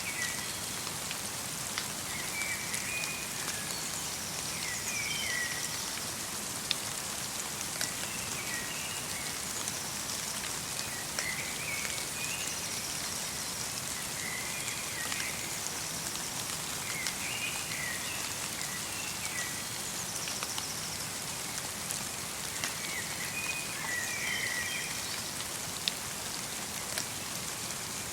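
Steady light rain mixed with snow falling on a forest, with scattered sharp drips. Small birds sing short chirping phrases every two or three seconds over the rain.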